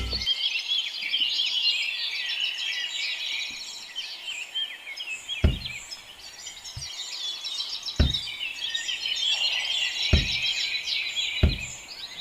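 Many small birds chirping continuously in a dense flock chorus. Five or six short, dull knocks come at intervals through the second half.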